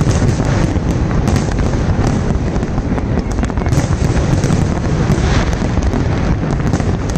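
Fireworks display: dense, continuous booming with many sharp crackles and pops overlapping.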